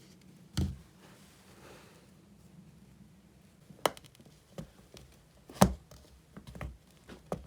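A few separate knocks and light taps of hard objects being handled. There is a dull thump about half a second in, a sharp click near the middle, and the loudest knock a little later.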